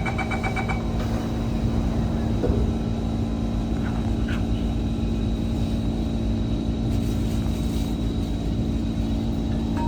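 SMRT C151 train: a rapid run of door-closing warning beeps that stops about a second in, then the train running with a steady low rumble and hum as it departs the station.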